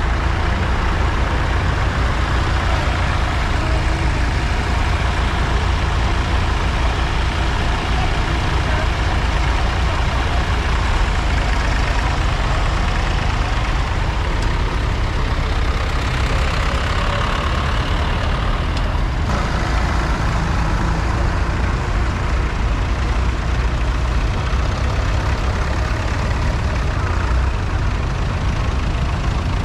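Tractor engine running steadily, a deep, even low rumble.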